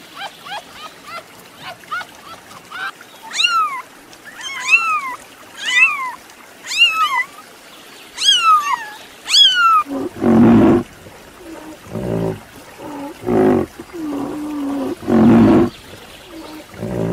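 Animal calls: a run of high, squeaky chirps that rise and fall, about one a second, then from about ten seconds in a few louder, lower, drawn-out calls, one held steady.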